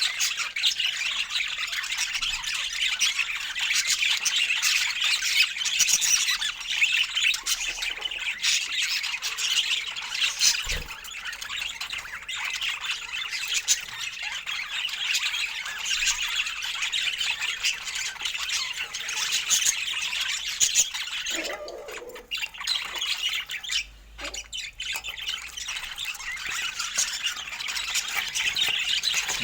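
Budgerigars chattering, a continuous dense mix of warbles, chirps and squawks, with short lulls a little over two-thirds of the way through.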